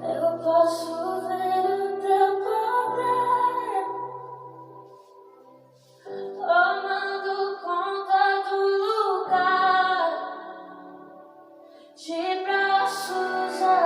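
Gospel worship song with a woman singing over soft accompaniment, in three sustained melodic phrases with short pauses between them.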